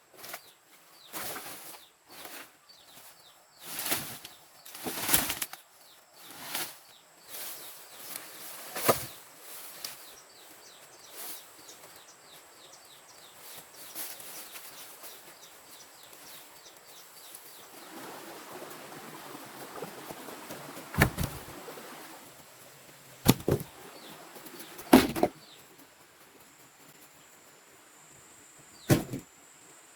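Irregular sharp chops or knocks, a few seconds apart, with rustling and swishing of leaves and branches between them.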